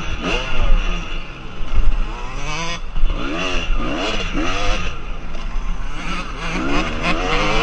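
Motocross dirt bike engines revving, the pitch climbing and dropping over and over as the riders throttle up and shift on the track, over a low rumble.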